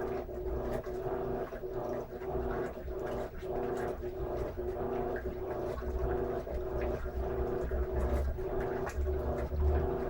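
Electrolux LM13Q top-load washing machine agitating a load of jeans: a steady motor hum with a low rumble and water churning in the drum, the rumble growing stronger in the second half.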